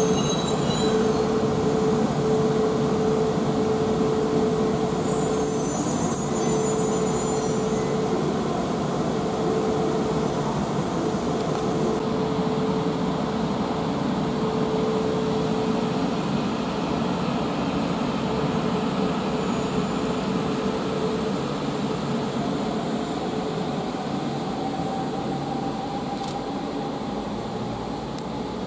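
E4 series Max double-decker Shinkansen running along the station tracks: a steady rumble of wheels on rail with a broken humming tone, fading slowly as the train draws away. A high squeal comes briefly about five to eight seconds in, and a faint rising whine near the end.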